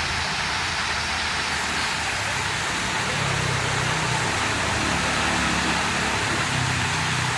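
Water flowing steadily out of a small lake, an even rushing sound. A low hum comes in about three seconds in and again near the end.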